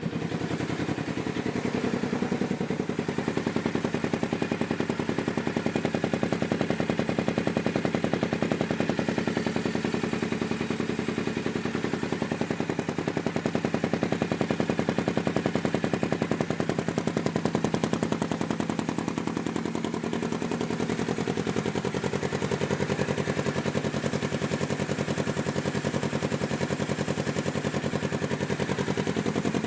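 Polaris RZR XP 900's parallel-twin engine running steadily through an aftermarket Looney Tuned dual exhaust, a rapid, even train of exhaust pulses.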